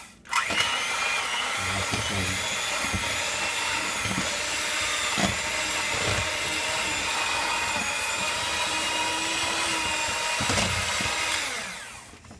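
Electric mixer running steadily as it beats ice cream and milk in a bowl, with a few short knocks along the way. It winds down and stops near the end.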